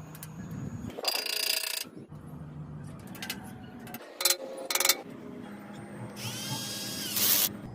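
Electric power tool run in short bursts: one about a second in, two brief ones between four and five seconds, and a longer run near the end whose motor pitch rises, holds and falls as it spins up and down.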